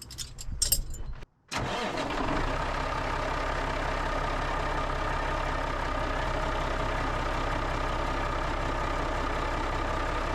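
A few short knocks, then the truck's engine running steadily from about a second and a half in.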